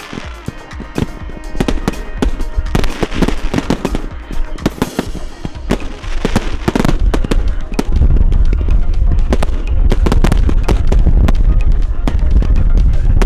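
Fireworks going off in rapid, crackling bangs over music. Heavier bangs with a deep low rumble set in about two-thirds of the way through.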